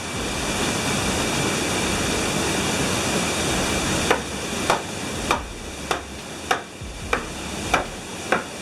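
A water-powered sawmill at work: rushing water fills the first few seconds, then the saw's mechanism knocks in an even beat, a little under two knocks a second, over the sound of the water.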